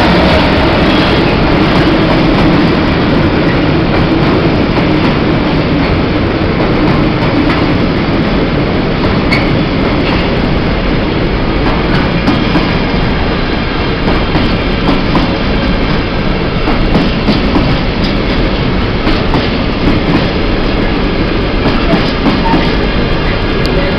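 Empty intermodal freight wagons of a train rolling past at speed, with a steady rumble and many sharp clicks as the wheels run over the rail joints.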